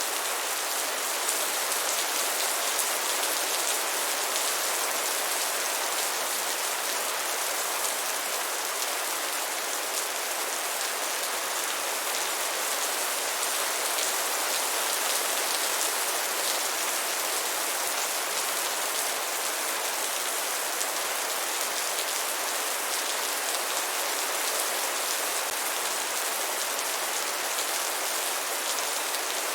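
Steady rain falling: a dense, even hiss of many drops with no thunder or gusts, unchanging throughout.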